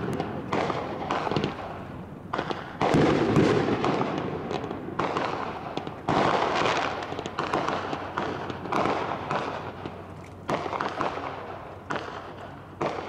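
Aerial fireworks shells bursting in quick succession, about a dozen sharp bangs, each trailing off in a long echo.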